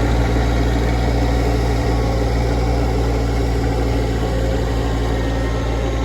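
Honda GX120 single-cylinder four-stroke engine running steadily at speed.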